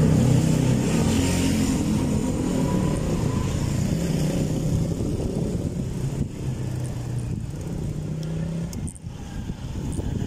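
A motor vehicle's engine running close by, loudest at first and fading gradually until it drops away near the end, over steady wind and road noise.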